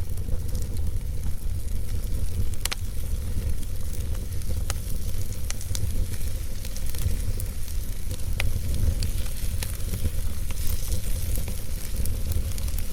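Logs burning in a fireplace, with steady crackling and hiss and sharp pops every second or two, over a continuous low rumble.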